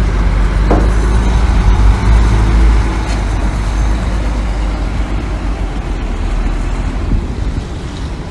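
Heavy diesel construction machinery engine running with a deep, steady rumble, loudest for the first few seconds and then easing slightly.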